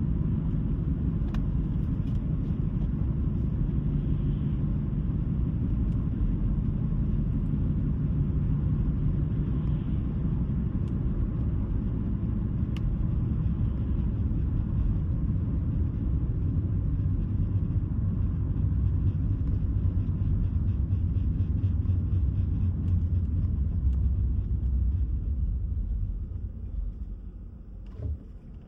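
Steady low rumble of a car being driven: tyre and engine noise at road speed. It grows quieter near the end, with a brief low thump just before the end.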